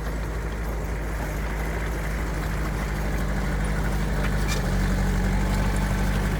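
Heavy diesel engine of an earthmoving machine running steadily, growing a little louder about three-quarters of the way through.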